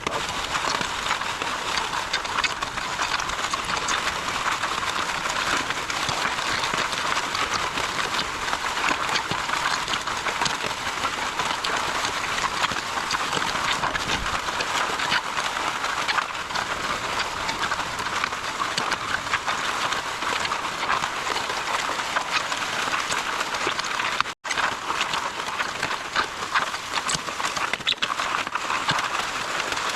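MudMixer concrete mixer running steadily, churning and pumping a concrete mix of small rock with a continuous rattle. The sound breaks off for an instant about two-thirds of the way through.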